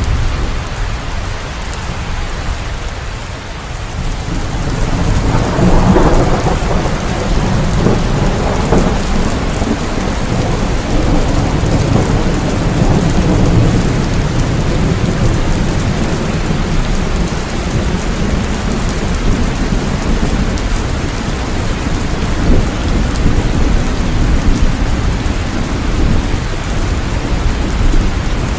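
Steady heavy rain with a low rumble of thunder that swells about five seconds in and rolls on under the rain.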